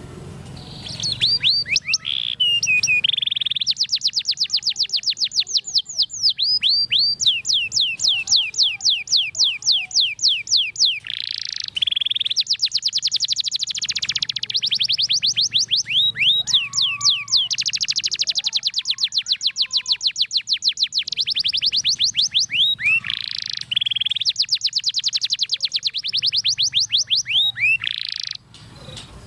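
Domestic canary singing one long unbroken song of rapid trills: fast runs of high, downward-sweeping notes, changing from one trill to the next with hardly a pause. It starts about a second in and stops suddenly near the end.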